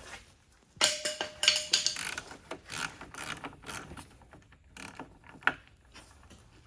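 Hand ratchet wrench clicking in quick, uneven runs as a fastener is undone, starting about a second in, then sparser clicks and light metal knocks, with one sharper knock near the end.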